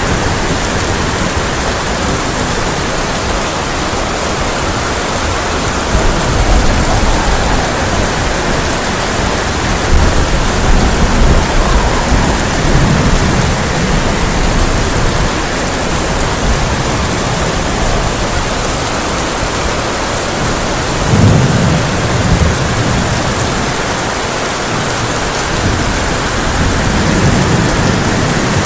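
Heavy rain on a tin roof, a steady loud hiss, with rolls of thunder rumbling low several times: around six seconds in, again from about ten seconds, strongest at about twenty-one seconds, and once more near the end.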